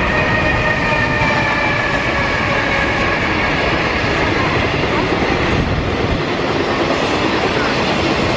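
Freight train passing close by: a loud, steady rumble of wheels on rail, with a whine of several tones that slowly falls in pitch over the first few seconds.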